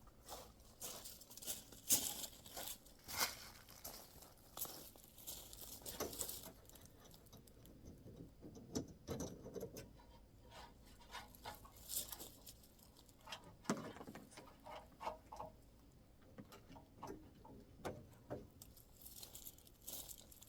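Handling noises of a bungee cargo net being stretched over a load and hooked down in a pickup bed: irregular light clicks, rustles and scrapes of hooks and net, with no steady sound.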